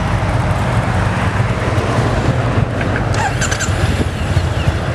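2014 Triumph Bonneville T100's air-cooled parallel-twin engine idling steadily, freshly started.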